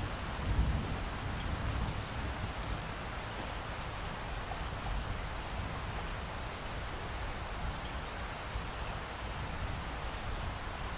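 Steady rain falling, with a low rumble of thunder about half a second in.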